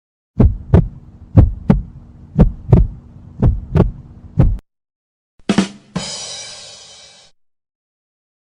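Heartbeat sound effect: five paired low thumps, about one pair a second. Then a short hit and a ringing sound that fades out.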